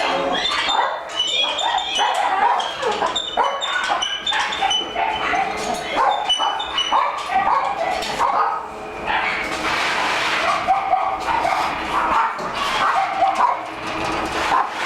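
Many dogs barking, yipping and whining at once from rows of shelter cages, a constant overlapping din.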